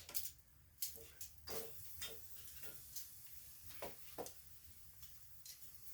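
A series of light, irregular clicks and taps, a few a second at times, over a faint steady hum.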